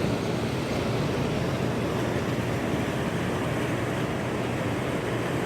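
Steady noise of the ferry M/V Hyak under way, leaving the dock: a low engine hum under a rush of wind and water.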